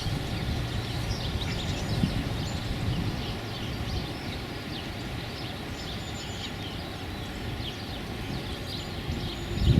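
Many small birds chirping in quick, short notes, over a steady low rumble of wind.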